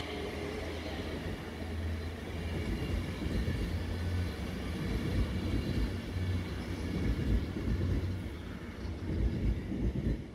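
A train moving through the station: a steady low rumble with uneven low thumps, a little louder toward the end.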